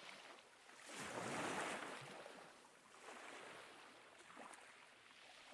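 Ocean waves washing in as a soft, hissing surf. One swell builds to a peak about a second and a half in, and a smaller one follows around three seconds.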